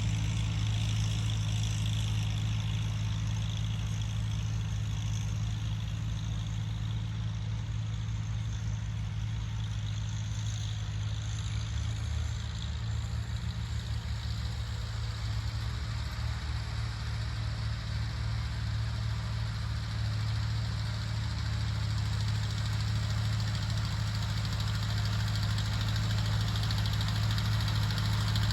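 Tractor engine running steadily, dipping slightly in loudness about halfway through and rising a little again near the end.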